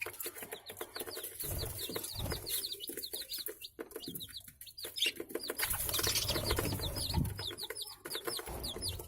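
A flock of budgerigars chirping: many short, high calls, each falling in pitch, several a second, over scattered clicks and a few low thumps.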